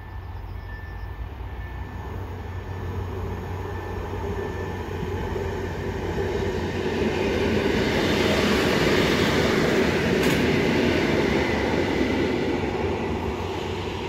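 Electric trains passing: an EN57 electric multiple unit, then an ET22 electric locomotive hauling hopper wagons. Their wheels rumble on the rails, building over the first several seconds and staying loud.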